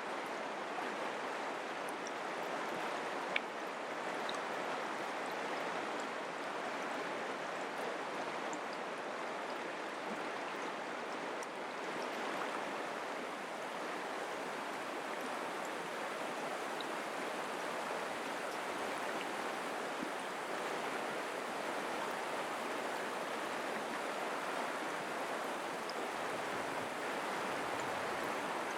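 Mountain creek flowing, a steady rush of running water with one brief tick about three seconds in.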